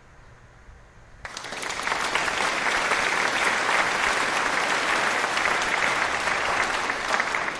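Applause that starts about a second in, swells briefly, holds steady and cuts off suddenly near the end.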